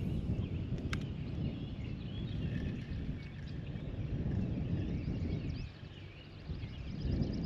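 Outdoor ambience: low, fluctuating wind rumble on the microphone with birds chirping faintly in the background, a quick trill near the end, and one sharp click about a second in.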